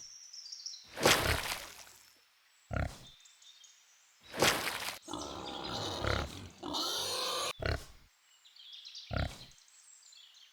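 Domestic pig grunting: a series of about seven separate grunts with short pauses between them.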